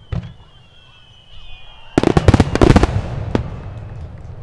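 Fireworks: a single bang, then a thin, slightly falling whistle for about two seconds, then a rapid volley of many sharp bangs about two seconds in, with a low rumble trailing after.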